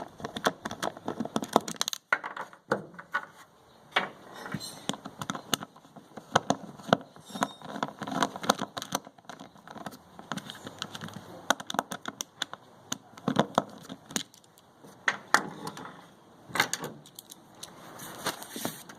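Irregular clicks, clinks and rattling of a screwdriver and small screws working on the plastic housing of a portable inverter generator.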